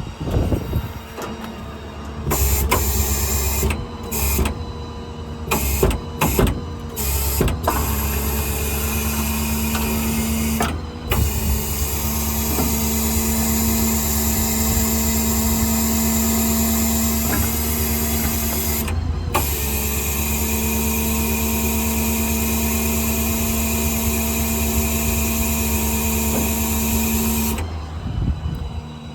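Motor-driven equipment running with a steady hum, switched on and off several times in short bursts at first, then running steadily with two brief stops before it cuts off near the end.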